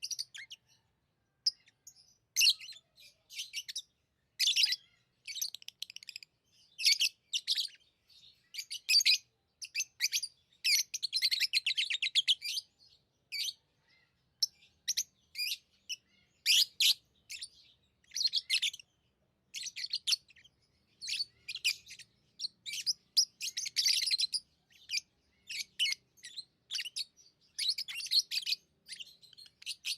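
Pet lovebirds chirping in short, high-pitched bursts about every second, with two longer runs of rapid chattering, one near the middle and one toward the end.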